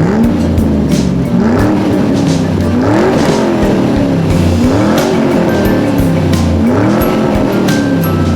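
Race car engine sound, its pitch rising and falling smoothly about every two seconds, with background music.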